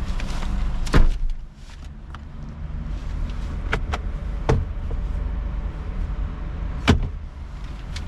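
A vehicle door shutting with a solid thunk about a second in, followed by a few lighter clicks and knocks, over a steady low rumble.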